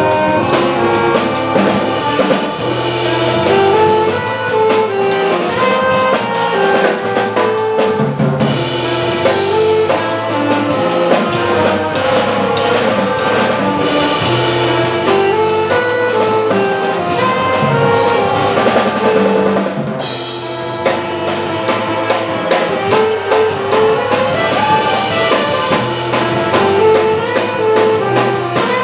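Jazz organ trio playing live: a saxophone line over organ and a busy drum kit with steady cymbal work.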